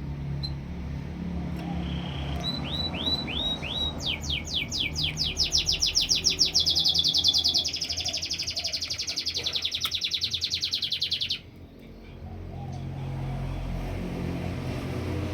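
Domestic canary singing: a few separate down-slurred notes, then long rapid trills of repeated notes that shift pace partway through and cut off abruptly about eleven seconds in. A low steady hum sits underneath.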